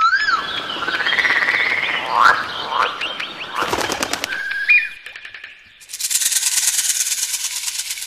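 Wild birds calling in quick succession, a different call every second or two: rising and falling whistled notes over a noisy background, a few sharp clicks, then a short two-note call. Over the last two seconds a dense, high, rapid buzzing takes over.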